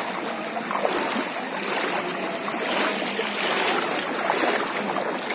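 Floodwater rushing and sloshing, a steady watery noise with small splashes.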